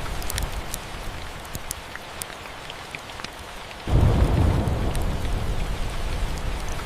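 Steady rain mixed with the sharp pops and crackles of a wood fire. About four seconds in, a low thunder rumble breaks in suddenly and then slowly fades.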